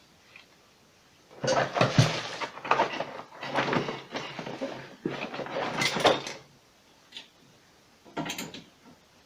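Screws being driven into the refrigerator's inner panel: a few seconds of clattering, ratcheting mechanical noise with short breaks, then one brief burst near the end.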